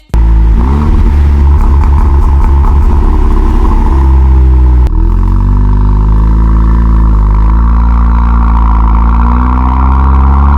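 Tuned Audi S3's turbocharged four-cylinder engine running loud through a Milltek exhaust, held at a steady note with small rises and falls in pitch. The sound changes abruptly about five seconds in, from a rougher, clattery note to a smoother one.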